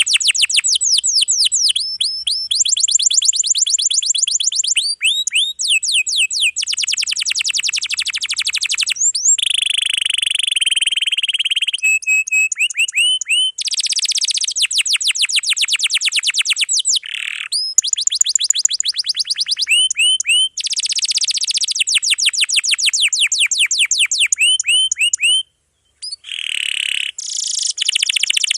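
Domestic canary singing a dense, continuous song of long rolls: fast trills of repeated, downward-sweeping high notes, switching from one trill to the next every few seconds. The song breaks off briefly near the end.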